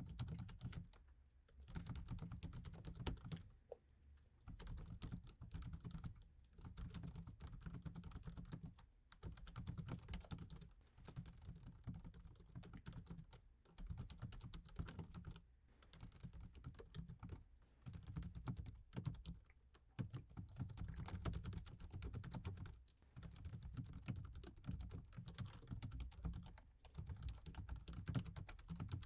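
Fast typing on an Apple iMac keyboard, dense runs of key clicks in bursts of a second or two with short pauses between.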